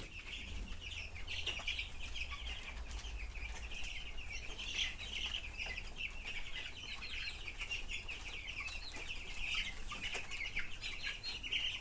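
A house full of young broiler chicks peeping and chirping continuously, many birds calling over one another, with a steady low rumble underneath.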